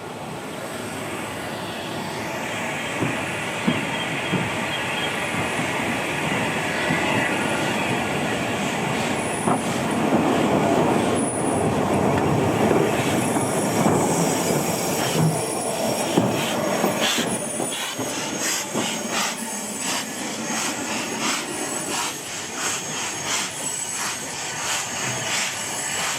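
Steam train passing: the running noise swells to a peak midway. In the second half the carriage wheels click steadily over the rail joints, with some wheel squeal.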